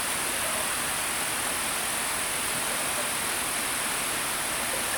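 Steady rushing of flowing water, with a constant high hiss above it.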